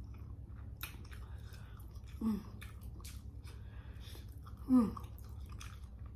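Close-miked wet chewing and mouth clicks from eating sauce-coated boiled jumbo shrimp. Twice, about two and nearly five seconds in, there is a short falling "mm" hum.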